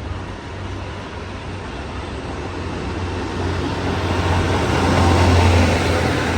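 Diesel railcar engine running with a steady low drone that grows louder through the second half.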